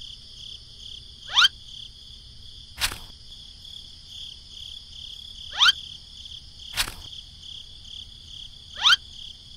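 Steady chirring of insects in the background. Three times, a short rising whistle is followed about a second and a half later by a light tap as a small toy pineapple is set down on the wooden tray's floor.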